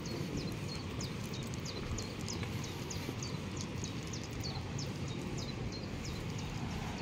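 A small songbird calling over and over, a quick series of short, high, falling notes about two to three a second, over a steady low outdoor rumble.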